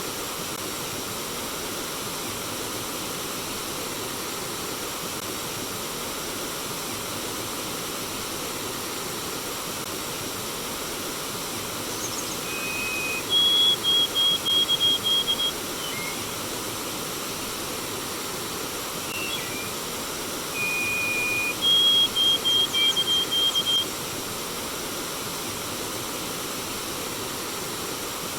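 Steady rush of flowing stream water. A songbird sings twice, each song a held whistle followed by a quick run of repeated higher notes lasting about two seconds.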